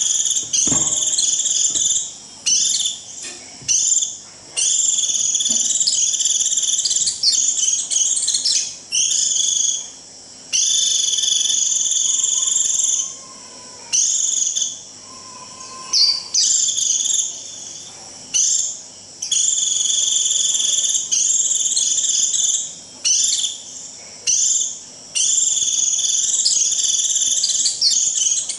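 White-eye giving its shrill, buzzy 'rít' calls in long phrases of one to three seconds, repeated with short breaks: the call used to summon a flock.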